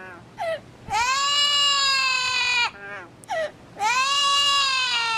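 A bird giving two long, drawn-out cries, each about a second and a half, rising at the onset and then sagging slowly in pitch, with short falling squawks between them.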